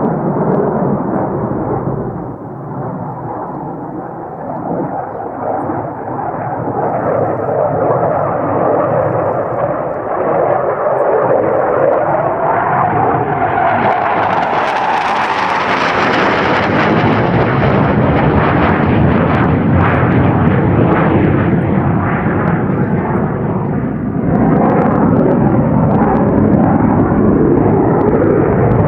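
Loud jet noise from the F-4EJ Phantom's twin J79 turbojets as the fighter flies past. A whine rises to a peak about halfway through and then falls away, and the engine noise swells again near the end.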